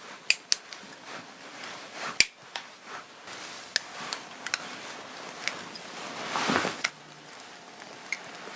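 Clothing fabric being handled and rustled, with scattered sharp clicks, and a louder rub of cloth about six and a half seconds in.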